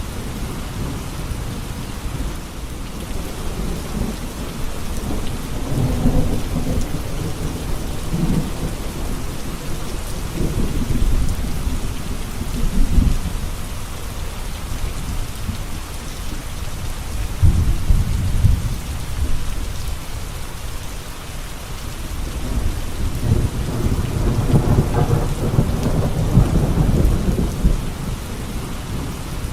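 Steady rain with thunder rolling in the background, a low rumble that swells and fades several times; the longest roll comes near the end.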